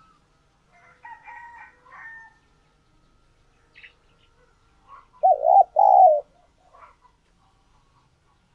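Spotted dove cooing: one loud phrase of two coos about five seconds in, with fainter bird notes near the start.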